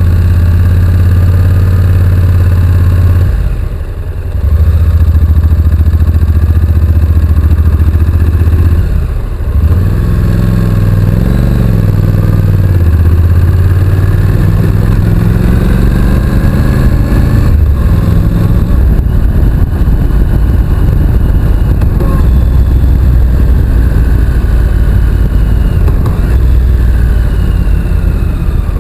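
Honda NC750X motorcycle's parallel-twin engine running while riding, with the throttle briefly closing twice, about four and nine seconds in. The engine note then rises and falls as the bike is ridden on.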